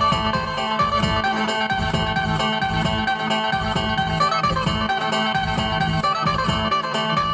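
Phin, the Thai Isan plucked lute, playing a quick melody over a held drone note, with a steady beat behind it.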